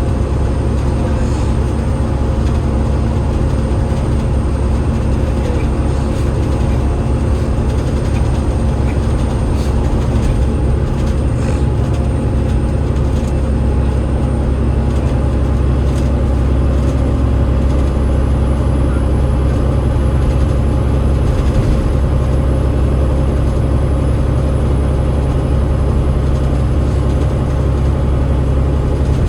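Alexander Dennis Enviro500 MMC double-decker bus with a Cummins ISL8.9 diesel and ZF EcoLife automatic gearbox, running steadily with a deep, even drivetrain rumble. A thin high whine sits above it and rises slightly about halfway through, then holds.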